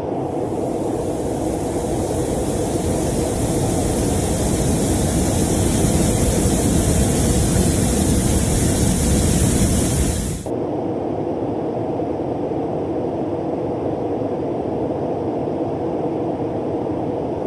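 Space sound recording played as the sound of Uranus's moon Cordelia: a steady, noisy low drone with a loud hiss over it that swells slightly and then cuts off abruptly about ten seconds in, leaving the drone alone.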